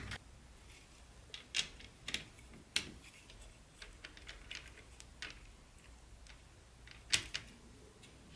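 Irregular light clicks and taps of small plastic model train pieces being handled, with a louder double knock about seven seconds in.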